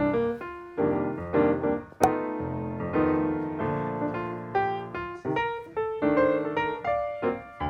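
Background piano music, a light melody of struck notes.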